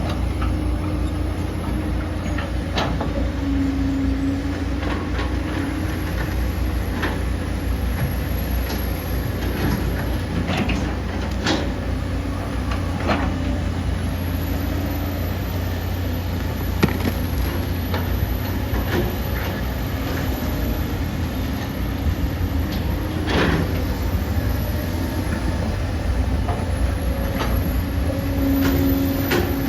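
Hydraulic excavator's diesel engine running steadily under load, with a high whine that rises and falls several times as the machine works. Scattered sharp knocks and clanks, loudest about 11 and 23 seconds in, come from the working bucket and arm.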